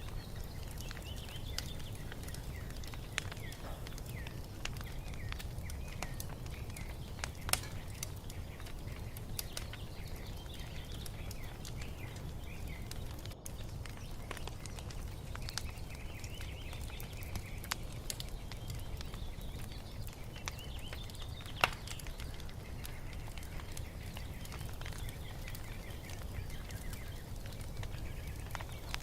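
Wood fire crackling, with a low steady rumble under scattered small pops and two sharper pops, about a quarter of the way in and about three quarters through. Birds chirping softly over it.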